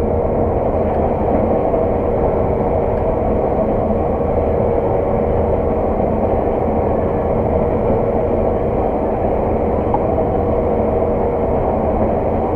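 Steady running noise of a Claas Lexion 600 TT combine heard from inside its cab while harvesting oilseed rape: an even drone of engine and threshing machinery with a constant hum.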